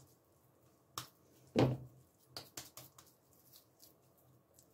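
Hands slapping and patting a raw ground-beef hamburger patty between the palms to shape it: a sharp slap about a second in, the loudest about a second and a half in, then a run of softer pats.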